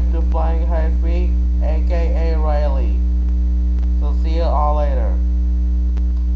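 Loud, steady electrical mains hum, a low drone with higher overtones, with a voice speaking a few short phrases over it in the first few seconds.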